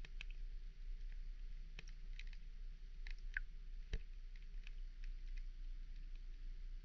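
Underwater ambience: scattered sharp clicks, roughly one or two a second, with a few short high chirps over a steady low hum.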